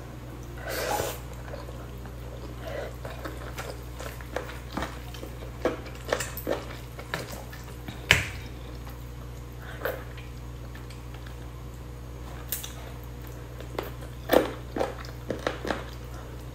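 Close-up eating sounds: chewing, wet lip smacks and bites as a person eats chicken and rice with her hands, in short sharp clicks at irregular times over a steady low hum.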